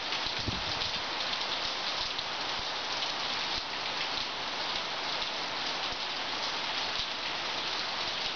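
Steady rain falling, an even continuous hiss of many drops.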